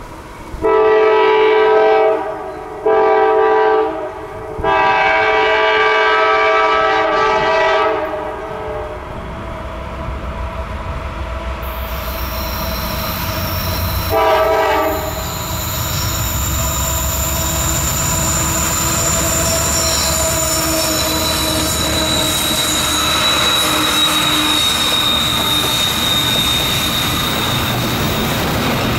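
Diesel locomotive horn of a CSX loaded coal train sounding three blasts, the third held longest, then a short fourth blast about 14 seconds in. From about halfway through, the train's low rumble builds and high, steady wheel squeal rings over it as the cars roll by.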